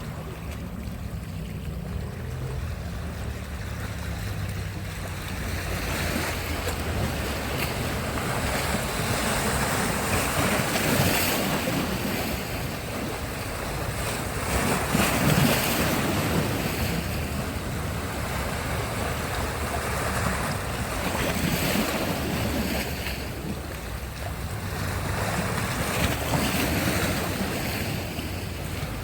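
Sea surf breaking and washing up the shore, the rush of water swelling and falling away every few seconds, loudest about halfway through.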